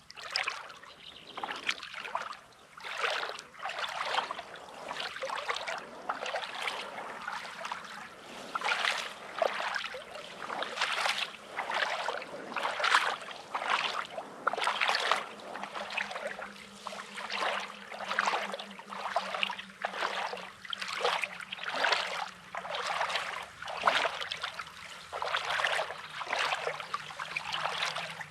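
Footsteps crunching on coarse, pebbly beach sand, about one step a second, over the wash of small waves.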